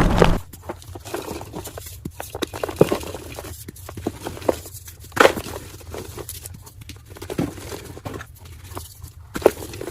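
Blocks of gym chalk being crushed by hand: a dense crunch stops about half a second in, then soft crumbling with scattered sharp snaps, a few louder than the rest.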